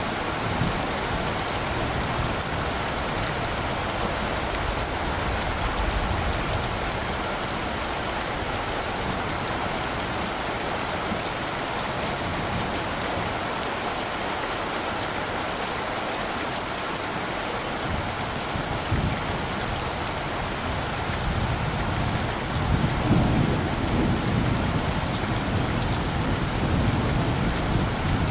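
Steady rain falling, with fine drop patter on top. Light thunder rumbles low in the background, swelling up about two-thirds of the way through and strongest a little after.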